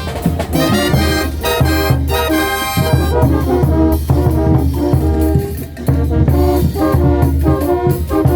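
Brass band playing loud, lively carnival music, with horns over a heavy low bass.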